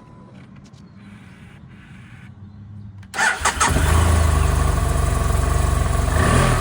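2013 BMW F800GT's parallel-twin engine cold-started: a few faint clicks, then about three seconds in the starter cranks briefly, the engine catches and settles into a steady idle.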